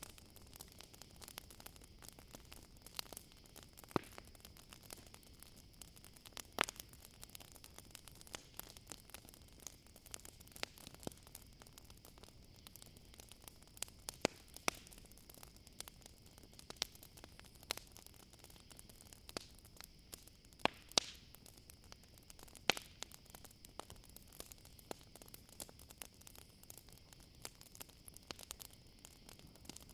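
Wood campfire crackling: irregular sharp pops and snaps, a handful louder than the rest, over a soft hiss. A steady high-pitched cricket trill runs underneath.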